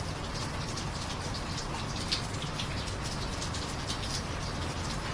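Steady rain with irregular drips and splatters scattered through it.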